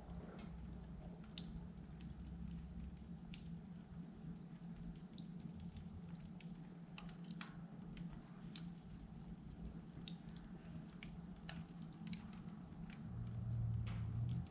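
Log fire crackling in an open-doored fireplace, with scattered sharp pops over a steady low hum that grows louder near the end.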